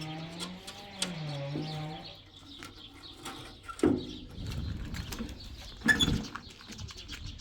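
Low cooing bird calls for about two seconds, then two sharp knocks, one about four seconds in and the louder one about six seconds in.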